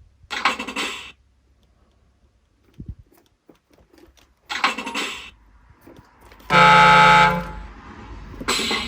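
An RC truck's sound module plays a truck horn blast through its small speaker, one loud held note of about a second, roughly two-thirds of the way in. Two short hissing bursts come before it, and a steady engine-like sound starts near the end.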